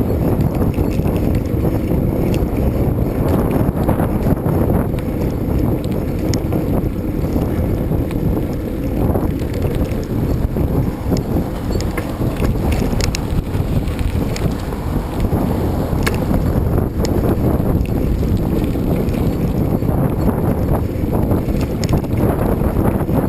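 Wind buffeting the microphone while riding a bicycle, a loud, steady rumble, with scattered light clicks and rattles through the middle.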